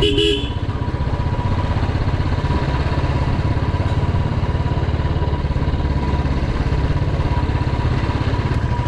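Royal Enfield Classic 350's single-cylinder engine running at steady low throttle while cruising slowly, its exhaust beating evenly.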